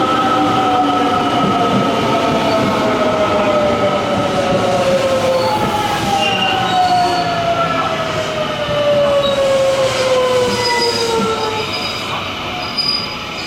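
An electric commuter train slowing into the station. Its inverter motors whine in several tones that fall steadily in pitch over a rumble of wheels, and a thin high squeal joins near the end.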